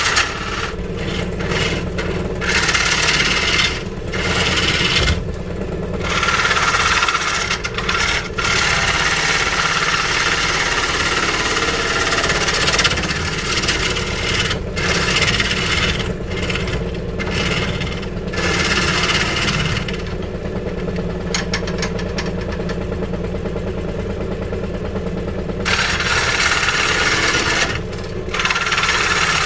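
A power tool cutting wood, running steadily under load. The scraping cutting noise breaks off briefly several times and drops away for a few seconds in the middle while the motor keeps running.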